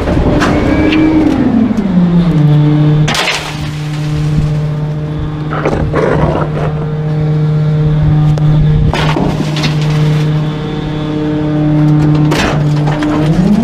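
Trash truck's engine running: its pitch drops early on, holds steady, and climbs again near the end. Four sharp cracks sound over it.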